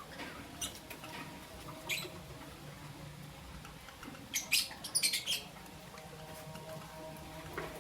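Lovebirds giving short, high-pitched squeaky chirps: a couple of single chirps early, then a louder quick run of chirps about halfway through.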